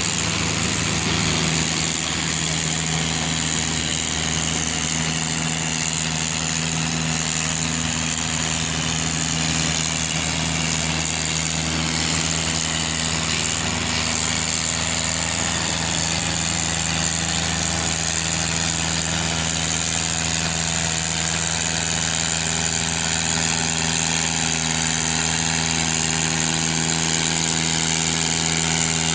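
Tractor engine running at a steady speed, with an even, unchanging pitch.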